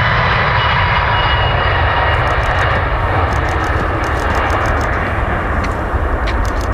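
Jet airliner's engines passing close by: a loud, steady rush with a thin whine on top that fades out within the first couple of seconds, the whole sound slowly dying away.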